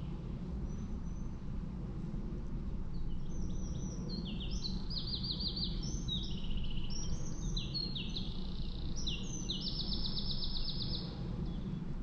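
A songbird singing a long run of fast trills, jumping from one pitch to another, over a steady low rumble.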